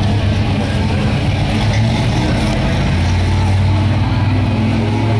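Car engine running steadily close by, with a deep, even exhaust note.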